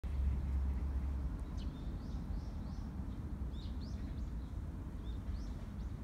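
Small birds chirping, short high chirps scattered through, over a steady low rumble that is loudest in the first second or so.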